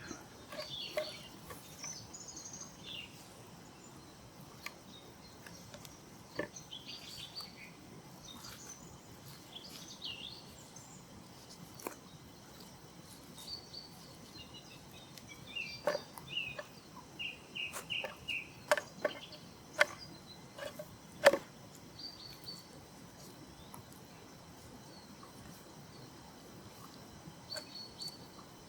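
Wild birds chirping and calling on and off in woodland, with a quick run of repeated short notes in the middle. Several sharp knocks or clicks cluster in the middle, and these are the loudest sounds.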